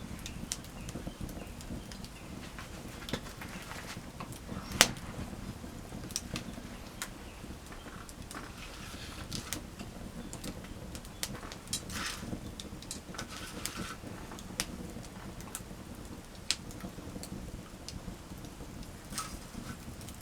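Wood campfire crackling, with scattered irregular pops and snaps over a low steady rumble, and one sharp loud pop about five seconds in.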